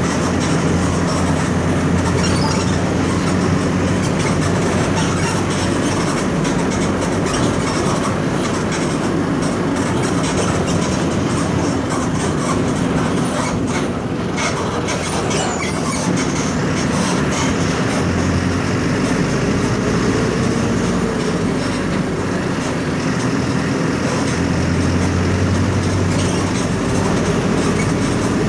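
Mercedes-Benz OF 1722M bus with its OM 924 LA 4.8-litre four-cylinder turbodiesel running steadily while under way. The low engine note swells and eases at times, and a faint rising whine comes in twice in the second half.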